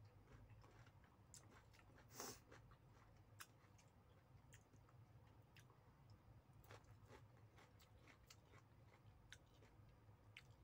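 Faint close-up eating sounds of a person chewing blanched cauliflower, with scattered small mouth and finger clicks. One louder brief burst comes about two seconds in, over a low steady hum.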